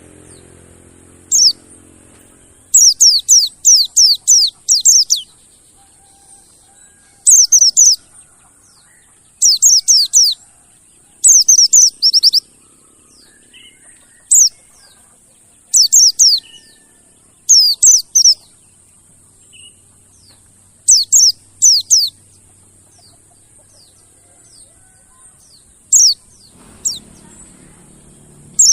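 Pleci (white-eye) calling: loud clusters of quick, high, falling chirps in bursts every second or two, over a steady faint high hiss. A low hum fades out in the first two seconds and comes back near the end.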